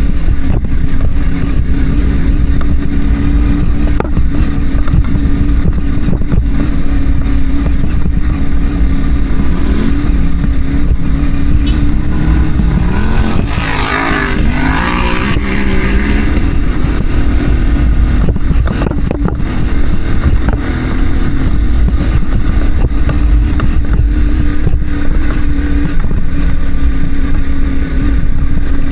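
Adventure motorcycle engine running at a steady pace under heavy wind rumble on the microphone. About halfway through, a second motorcycle's sound swells and fades over a couple of seconds as it passes close by.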